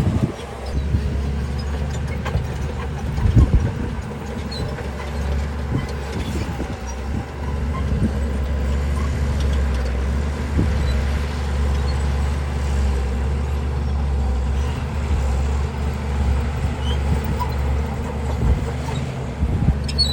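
Heavy construction machinery's diesel engine running steadily with a deep rumble, with a loud clank about three seconds in.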